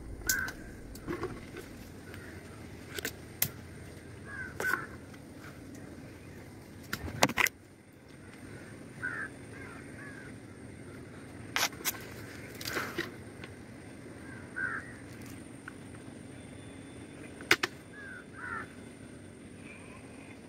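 A bird calling in the forest, short harsh calls repeated about every four to five seconds, with scattered sharp clicks and snaps in between.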